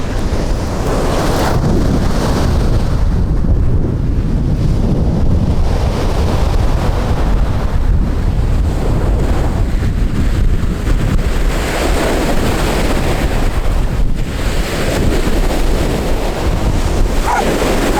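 Strong wind buffeting the microphone in gusts, over the steady wash of sea waves on the shore.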